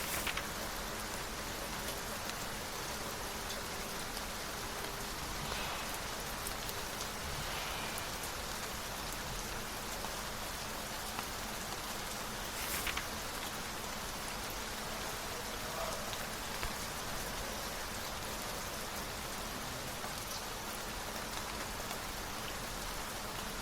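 Steady rain, an even hiss with no break, with two brief rustles, one at the very start and one about halfway through.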